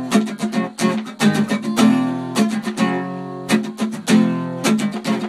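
Acoustic guitar strummed in quick strokes, a few chords left ringing longer in the middle.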